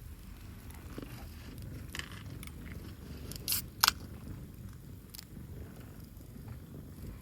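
Wood fire burning in a camp fire pit: scattered crackles over a low rumble, with two sharp pops close together about three and a half seconds in.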